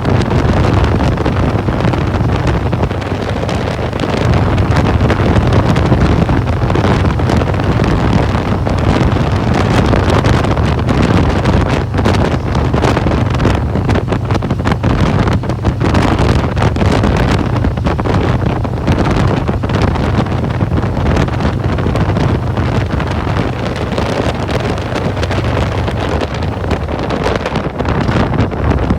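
Wind buffeting the microphone on a Harley-Davidson Road Glide riding at road speed, over the steady low drone of its 107 cubic inch V-twin engine.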